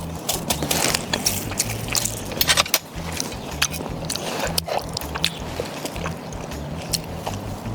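Close-up eating sounds from a person eating grilled pork belly: irregular chewing and crunching with sharp clicks and taps, over a low outdoor rumble.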